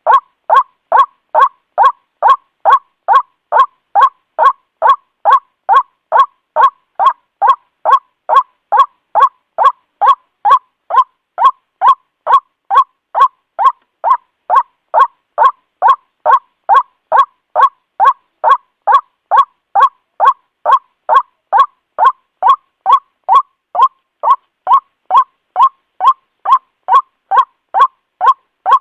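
White-breasted waterhen calling: a steady, unbroken series of short 'ruak' notes, each falling slightly in pitch, about two to three a second.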